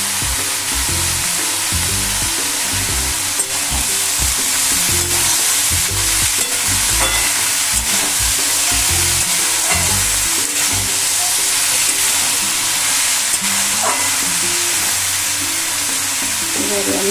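Sliced bottle gourd sizzling steadily in hot oil in a metal kadai, stirred with a steel spatula, with a few light scrapes and clicks of metal on the pan.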